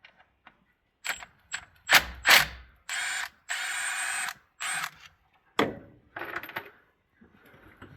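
Cordless impact tool spinning out the 8 mm valve body bolts on a 68RFE transmission in three short runs, with sharp clicks and knocks of tools and bolts before and after.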